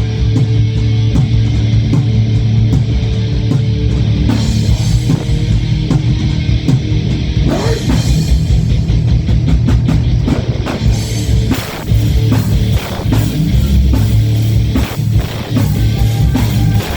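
Live heavy rock band playing: distorted electric guitars and bass over a steady drum kit, loud throughout, as heard from the audience.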